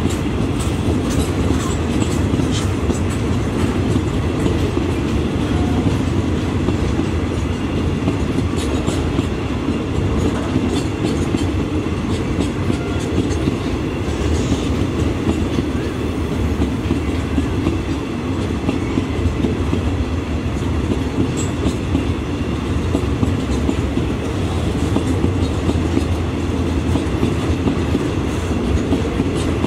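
Freight train of railway tank wagons rolling past close by: a steady, heavy rumble of wheels on rails with light clicks.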